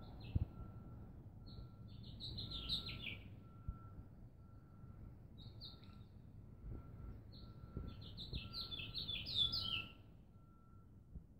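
A songbird singing in short phrases of quick, falling chirps, four times, the longest phrases about two seconds each, over a low rumble like wind on the microphone.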